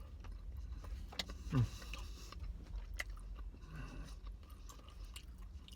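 Eating sounds: scattered small mouth clicks and smacks while picking up sauce-soaked chicken, with one short falling 'mm' about a second and a half in, over a steady low hum.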